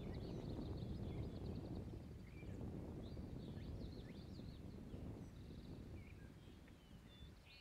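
Several birds calling outdoors, with scattered short chirps and whistled notes and a fast trill of repeated notes near the start, over a low rumble of background noise.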